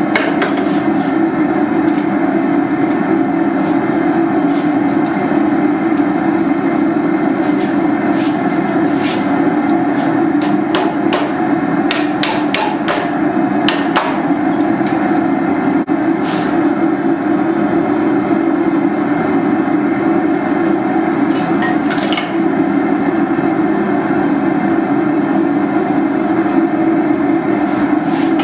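Hammer striking hot steel on an anvil while forging banister hooks, in irregular single blows with a quick run of several strikes around the middle and a couple more later. Under the blows runs a steady, loud roar.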